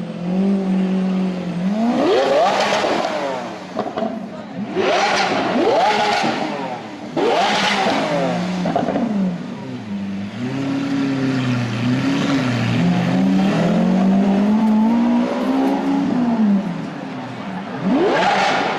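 Lamborghini Aventador V12 engines revving. Sharp blips climb quickly in pitch about two, five and seven seconds in and again near the end, and between them the engine is held at a steadier, wavering rev.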